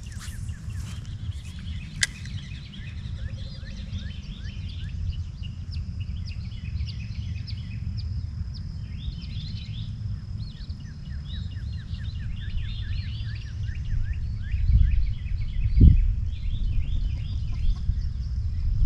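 Outdoor evening ambience by a pond: wind rumbling on the microphone under a constant chorus of short chirping calls and a steady high insect drone. A sharp click about two seconds in, and heavier wind gusts near the end.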